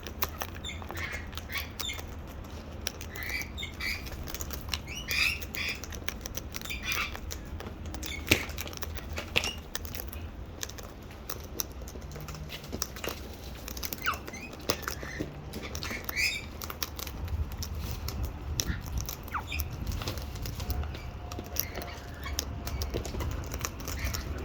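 Wild parrots feeding on seed from a container: short squawks and chirps come and go throughout, mixed with sharp clicks and scuffling.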